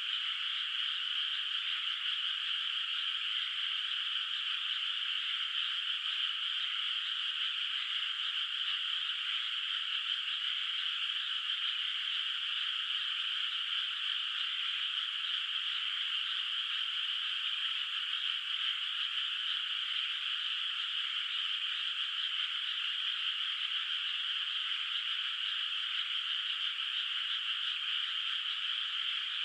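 Dense chorus of many frogs calling together in a flooded rice paddy, a steady, unbroken wall of high calls with no pauses and nothing in the low range.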